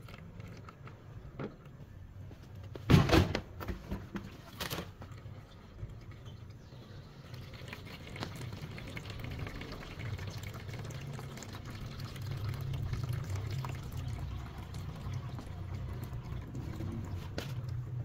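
Water trickling and splashing from a brass tap into a plastic basin of water. The tap is fed through a copper coil wound over a gas burner. There are two loud sudden bursts about three and four and a half seconds in, and the flow runs steadily from about seven seconds in.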